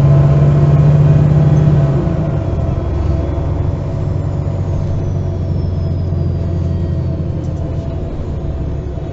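MAN Lion's City G articulated city bus heard from inside, its diesel engine running as the bus drives. The engine note drops to a lower, steady pitch about two seconds in and slowly gets quieter. A faint high whine falls slowly in pitch through the middle.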